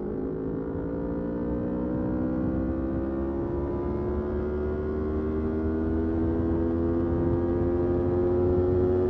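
Motorcycle engine pulling steadily in one gear, its note rising slowly and evenly.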